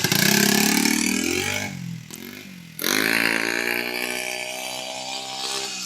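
Small motorcycle engine revving: the revs climb, drop away around two seconds in, then pick up sharply a little before three seconds and slowly die back down.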